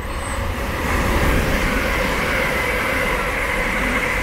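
A pair of coupled Class 387 electric multiple units passing through at speed on wet rails. The rush of wheels on rail and air builds quickly over the first second and then holds steady as the train runs by.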